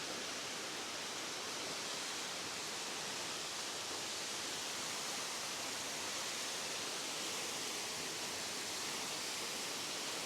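Waterfall: water pouring over rock, a steady, unbroken rush.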